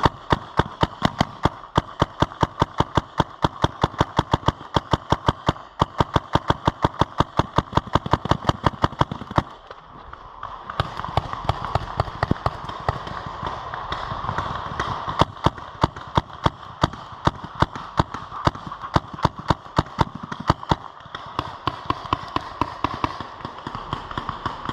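Paintball marker firing a rapid string of evenly spaced shots, about four or five a second. The firing breaks off about ten seconds in and starts again in further strings from about fifteen seconds in.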